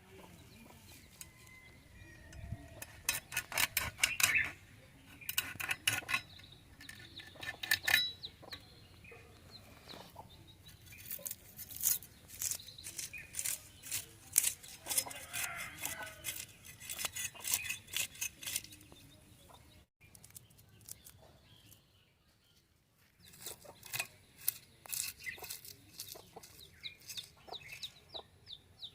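Chickens clucking in repeated bursts, mixed with quick sharp clicks. There is a short lull about twenty seconds in.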